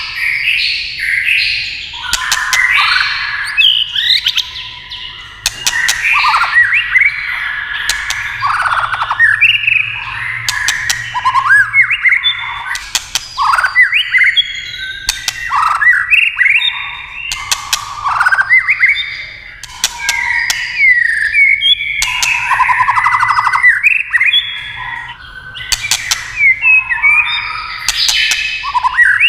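White-rumped shama singing a rich run of varied whistled phrases with quick rising and falling notes, broken by sharp clicking 'tak' calls.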